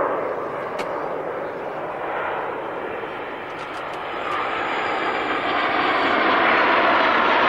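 Jet display aircraft flying past, their jet engine noise a steady rush that grows louder from about four seconds in. The jets are the Italian display team's Aermacchi MB-339s.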